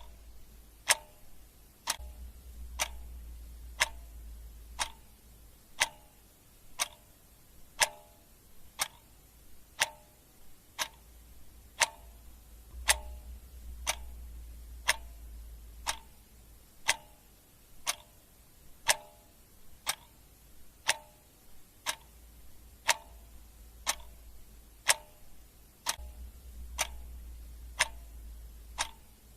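Clock ticking steadily, about one tick a second, with a faint low hum coming and going underneath.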